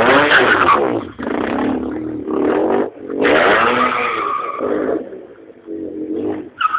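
Motorcycle engine revved hard in several bursts, each rising and then falling in pitch, with short drops between them.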